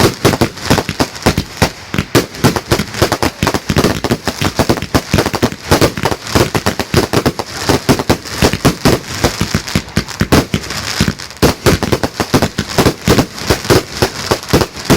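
Fireworks going off in a rapid, unbroken barrage of loud bangs and cracks, several a second.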